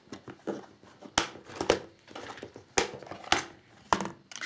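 Rummaging by hand among small tools and packaging: a string of sharp clicks and knocks from small hard objects being moved, with some crinkling in between.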